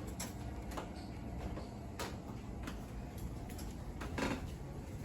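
Scattered sharp ticks of hailstones striking as the hailstorm tapers off, over a steady low rumble, with one louder hit about four seconds in.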